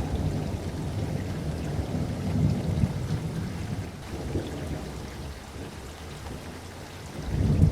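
Steady rain with low rolling thunder, the rumble swelling about two to three seconds in and again near the end.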